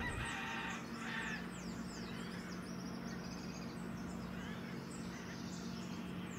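Many birds calling with quick, falling chirps, over a faint steady low hum.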